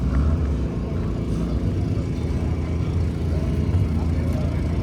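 Steady low rumble of outdoor ambience with faint distant voices in the background.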